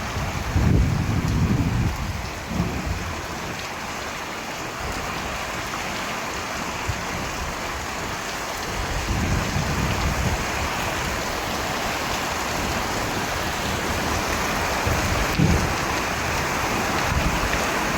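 Steady rain falling, with low rumbles of thunder about a second in and again near the middle and end.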